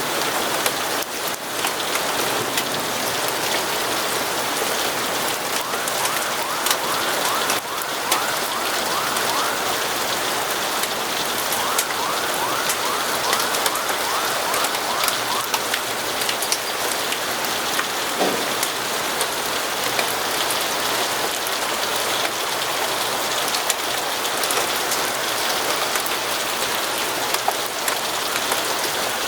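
Steady rain falling, an even hiss dotted with sharp ticks of drops. Two short runs of quick, evenly repeated strokes come in about six and twelve seconds in.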